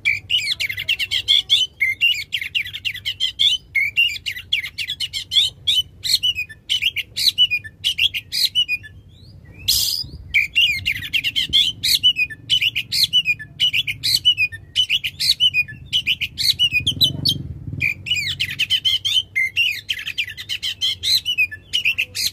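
Oriental magpie-robin singing a loud, continuous song of rapid, varied whistles and sharp chattering notes, in long runs with a couple of brief pauses.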